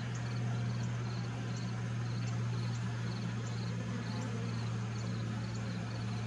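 Steady low hum of honeybees around the open hive, with a small insect chirping over it at an even pace, a short high chirp roughly every second.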